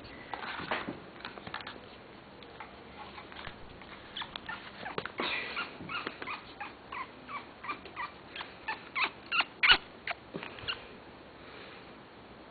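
African grey parrot making a long run of short clicks and brief chirps, getting louder and quicker toward the end, then stopping.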